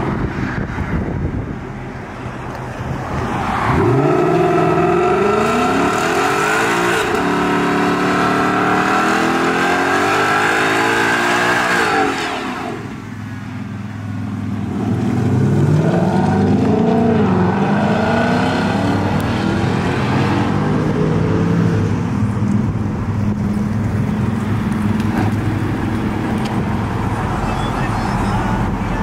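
Ford Mustang GT's 5.0 V8 revving hard during a smoky burnout, with the pitch climbing and dropping in repeated sweeps. It eases off about twelve seconds in, revs up again, then settles into a steady rumble near the end.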